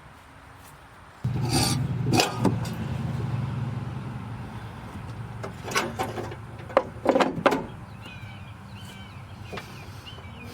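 A car's 4.6-litre V8 engine running. It cuts in suddenly about a second in and holds a steady idle, with a few short sharp spikes around two seconds in and again between six and seven and a half seconds.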